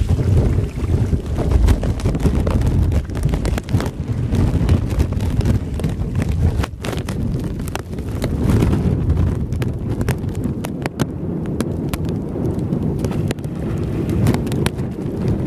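Strong wind buffeting the microphone, a deep irregular rumble, with many scattered sharp taps throughout.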